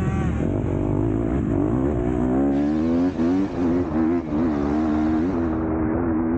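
MX2 motocross bike engine under race throttle: the pitch climbs about two seconds in, then rises and dips several times as the throttle is chopped and opened again, and holds steadier near the end.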